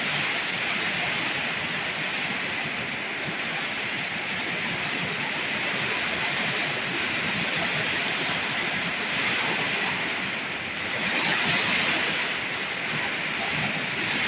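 Torrential rain pouring down in a thunderstorm downpour: a steady, dense hiss that swells briefly louder about eleven seconds in.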